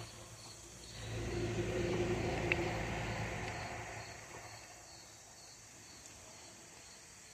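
A vehicle passing by, its sound swelling about a second in and fading away over the next few seconds, with one short click near the middle. Crickets chirp faintly and evenly underneath.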